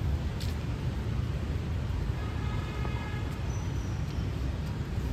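City street ambience: a steady low rumble of road traffic, with a faint pitched tone from about two to three seconds in.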